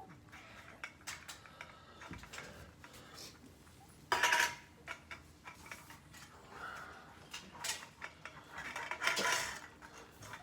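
Metal clinks, clicks and scrapes of cat-food cans and their lids being handled, with a louder clatter about four seconds in and another about nine seconds in.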